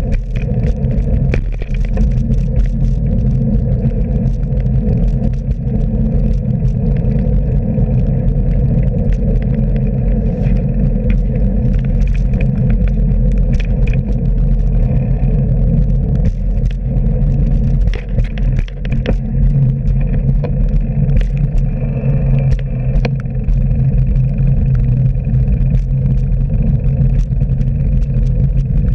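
Loud, steady rumble of road and wind noise from a bicycle ride on a commute, with frequent small knocks and rattles.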